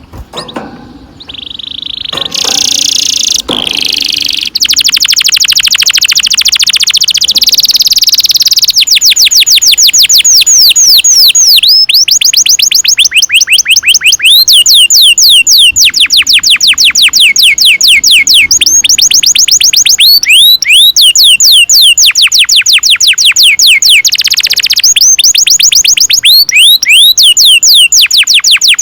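Domestic canary singing a long roll: first a buzzy, very fast trill, then quick downward-sliding whistled notes repeated many times a second, the phrases changing speed with a few brief pauses.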